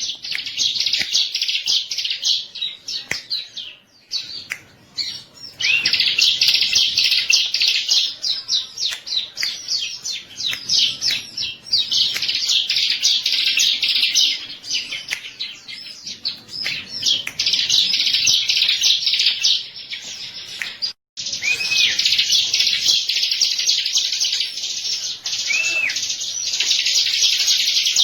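Bar-winged prinia (ciblek) singing: fast, high, chattering trills in repeated phrases of a few seconds each, with short pauses between them.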